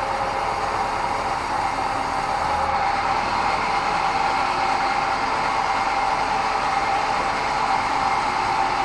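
Sawmill bandsaw running steadily, an unbroken machine noise with a constant high hum.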